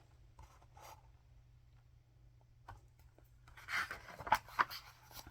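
Paper rustling with a few small clicks for about a second, near the end of a quiet pause: a page of a picture book being turned.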